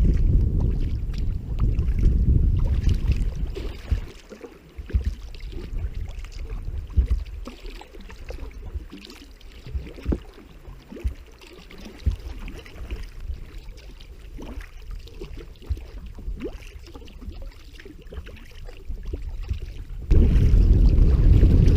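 Wind rumbling on the microphone while sea kayaking, with splashes and drips of water from the paddle. The wind rumble eases after about four seconds, leaving scattered small splashes, then comes back suddenly near the end.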